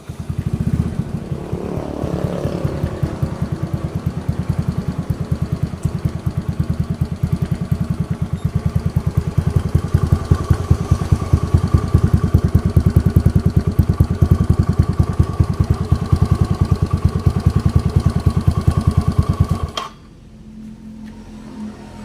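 Yamaha Mio scooter, bored up to 130 cc, with a Hitech Racing aftermarket exhaust, idling with a steady, even exhaust pulse. The engine stops abruptly near the end.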